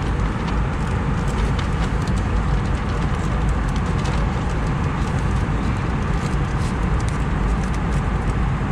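Airliner cabin noise of an Airbus A320neo in cruise: a steady low rumble of airflow and engines, with faint light clicks over it.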